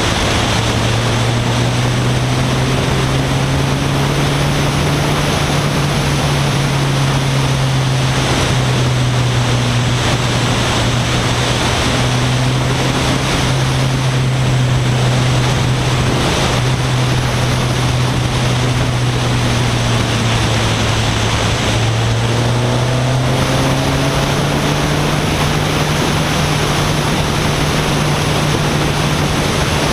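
A 1996 Acura Integra's four-cylinder engine, fitted with a cold air intake and 2.5-inch exhaust, running at steady revs under a heavy rush of wind and road noise. The revs dip briefly about two-thirds of the way through, then climb and hold higher.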